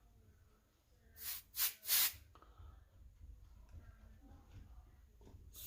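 Three short blasts of compressed air about a second in, blown through a small part of a Coleman 530 pocket stove to clear out cleaner.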